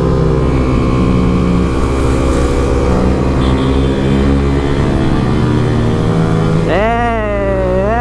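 Motorcycle engine running under way, its pitch drifting slowly up and down. Just before the end, a loud pitched sound with a wavering pitch comes in over it.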